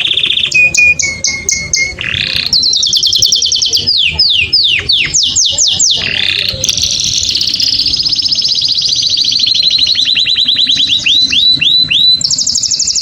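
Canary singing: a continuous run of rapid trills and rolls, with a set of fast downward-sweeping notes about four to six seconds in and again near the end.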